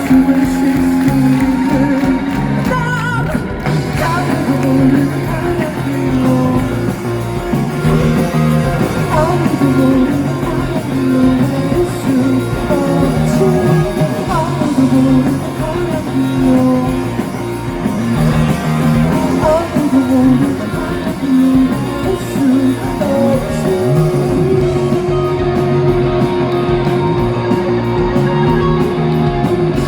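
Live rock band playing, with electric guitars and singing, recorded loud from the audience on a phone's microphone.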